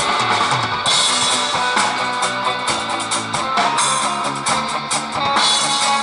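Post-rock band playing live: layered electric guitars over a drum kit with frequent cymbal hits.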